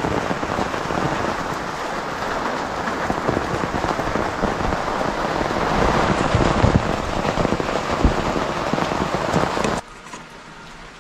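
Loud, steady rain falling, a dense hiss with scattered drop impacts. About ten seconds in it cuts off abruptly to a much quieter patter of rain.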